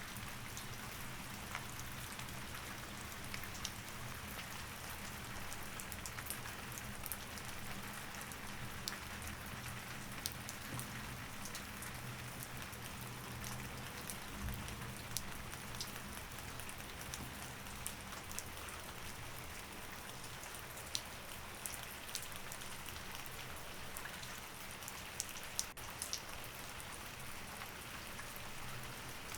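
Steady rain, with scattered sharp ticks of single drops, over a faint steady low hum.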